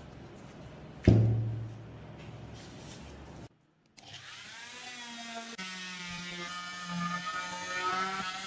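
A single metallic clunk about a second in, then, after a short cut, a small electric power tool starts and runs with a steady whine.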